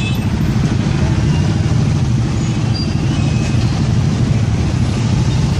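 Steady low rumble of a motor vehicle's engine and road noise while riding along.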